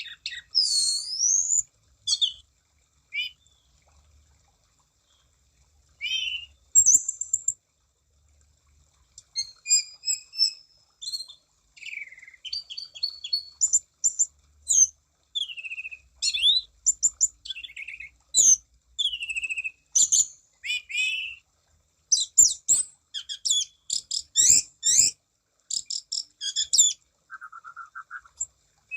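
Anis cendana (orange-sided thrush) singing a varied song of short whistled phrases, slurred glides up and down and quick chattering notes, with brief pauses between phrases. A dense run of rapid notes comes near the end.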